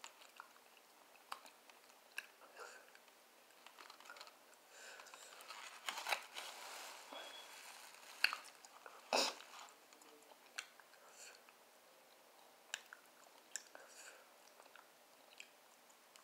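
Close-up chewing and biting into fried barbecue ribs: irregular short clicks and mouth smacks, with a louder stretch of biting about six to nine seconds in.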